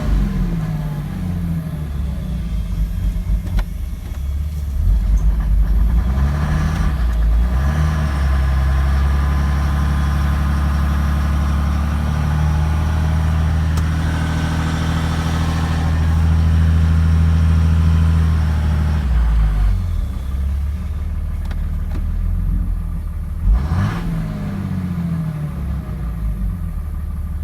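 A 2006 Cummins inline-six diesel running at an uneven idle, revved a few times, held at higher revs for several seconds near the middle, then dropping back to idle. The lope in the idle is not from a tune: the owner suspects a bad injector.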